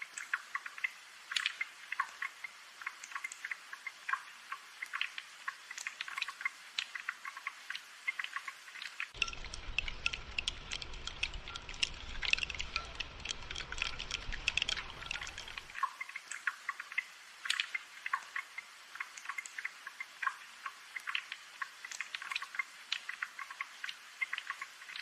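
Rain falling, heard as a dense, irregular patter of small drops and drips over a light hiss. A faint low rumble comes in about nine seconds in and drops out about sixteen seconds in.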